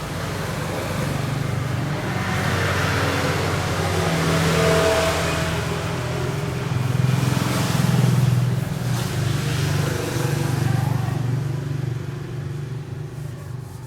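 A motor vehicle engine running with a low steady hum, swelling and easing off a couple of times and fading near the end.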